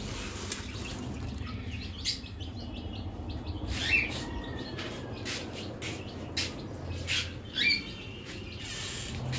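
Budgerigars chirping in an aviary: scattered short, sweeping chirps, a few of them louder, over a steady low rumble.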